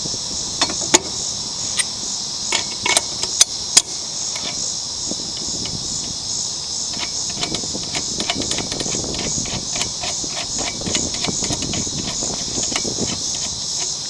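Lawn mower blade and its bolt being refitted: a few sharp metal clinks and knocks, then a long run of quick ratchet clicks from a socket wrench turning the blade bolt down. A steady chorus of crickets chirps throughout.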